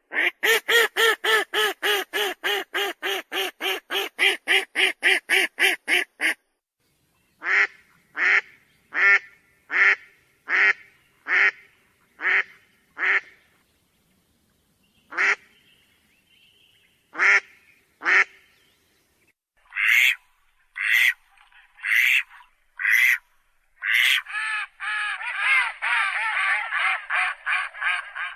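Ducks quacking: a fast, even run of about twenty quacks over the first six seconds, then slower single quacks spaced under a second apart, and a dense stretch of rapid calling near the end.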